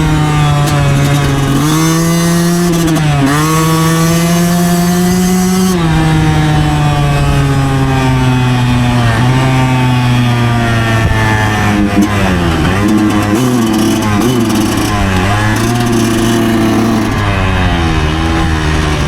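2009 Yamaha YZ125's 125cc two-stroke single-cylinder engine running under way. The pitch is mostly steady, dips briefly about three seconds in, then slides gently lower. In the last third the revs rise and fall repeatedly as the throttle is worked.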